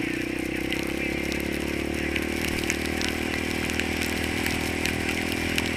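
A single-cylinder four-stroke ATV engine running at a steady pitch, with scattered small clicks over it.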